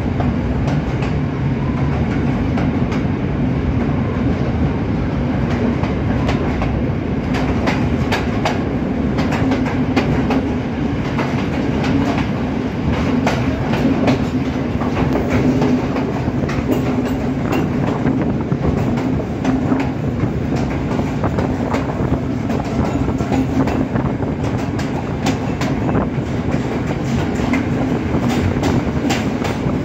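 Passenger train running through a stone-lined tunnel: a steady rumble of wheels on rails with many sharp clacks over the rail joints, heard at the open carriage door.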